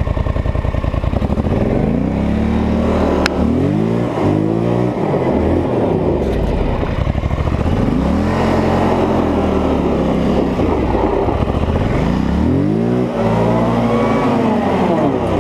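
Polaris Scrambler 850 ATV's 850 cc twin-cylinder engine running under throttle. After a steady low first second, it revs up and falls back four times as the rider accelerates and lets off.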